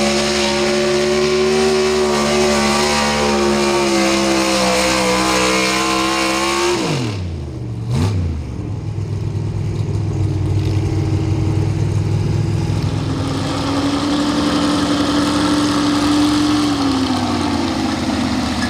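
Pro Stock 4x4 pulling truck's engine running at high revs under load, the pitch slowly sagging, then dropping off sharply about seven seconds in as the throttle comes off. A quick rev up and down follows, and the engine then runs on at lower revs.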